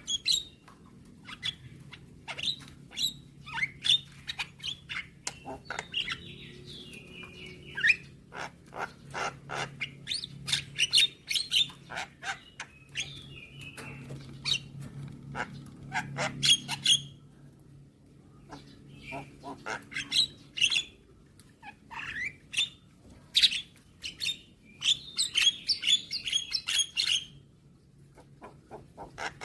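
Javan myna (jalak kebo) calling: rapid runs of short, sharp chattering notes and clicks mixed with brief warbled phrases, with short lulls around the middle and near the end. A faint steady low hum runs underneath.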